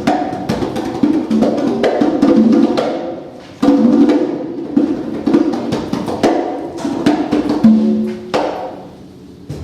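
Congas played by hand in free improvisation: quick runs of pitched open tones and sharp slaps, dropping off briefly about three and a half seconds in and thinning out near the end.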